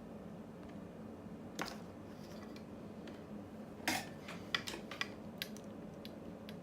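Small metal tools clicking and clinking as they are handled and set down on a workbench while wires are tinned with solder, a handful of light taps with the sharpest about four seconds in, over a steady low hum.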